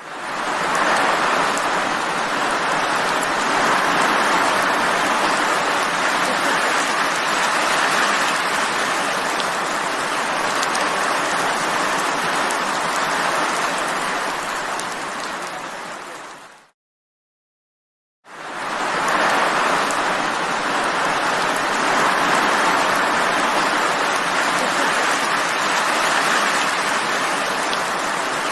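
Steady heavy rain, a dense even hiss. About halfway through it fades out to a brief silence of a second or two, then fades back in.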